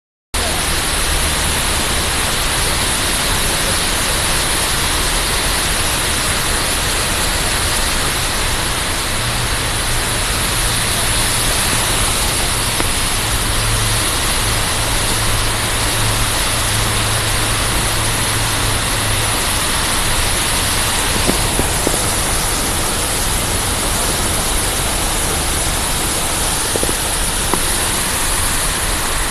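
Car driving through floodwater: a steady, loud rush of water thrown up by the tyres, with the engine's low hum beneath, stronger for a stretch in the middle.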